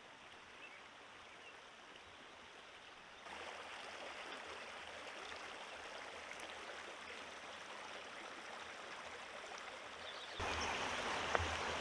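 Mountain creek running, a steady rush of water that gets louder in two sudden steps, about three seconds in and near the end.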